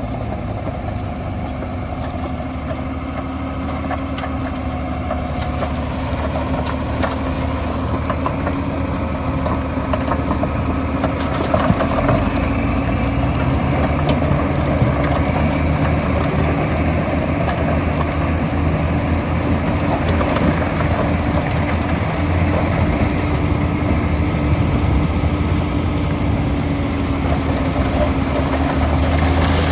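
Diesel engine of heavy earthmoving machinery running steadily, with a held engine hum that drops in pitch near the end as the engine slows.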